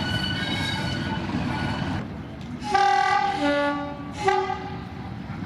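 Railway train running with a thin, steady high-pitched squeal for the first two seconds, then two short blasts of a train's horn about three and four seconds in, the first stepping down in pitch.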